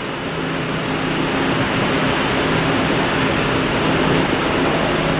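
Electric arc welding in a workshop: a dense, steady crackling hiss, louder after the first second or so, over the steady low hum of the welding machines.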